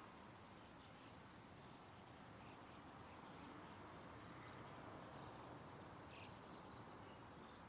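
Near silence: faint outdoor background hiss with a few faint, short, high chirps and a thin high whine that fades out about a second and a half in.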